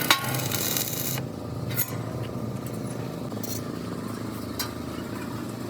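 Workshop noise in a trailer-body fabrication shop: a sharp metallic knock at the start, a hiss that stops about a second in, then scattered clinks and a brief hiss over a steady low background hum.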